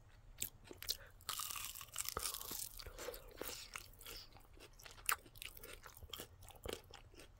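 Close-up chewing and crunching on a sauce-coated, oven-baked crispy chicken wing: scattered small crunches and clicks, with a longer stretch of crunchy chewing about a second in.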